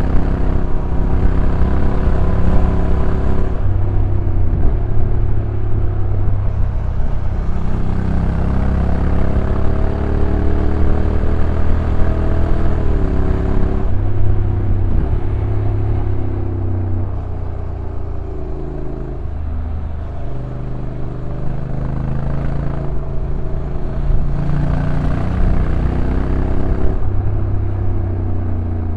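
Honda NC750X DCT's parallel-twin engine heard on board while riding. Its pitch rises and falls, broken by several sudden steps as the dual-clutch transmission changes gear, over a steady rush of road and wind noise.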